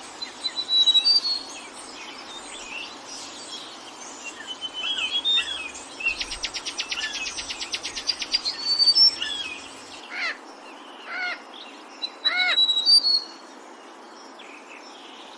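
Several forest birds singing and calling over a steady hiss of background ambience, with short whistled notes and arching calls. A rapid trill runs for about two seconds near the middle.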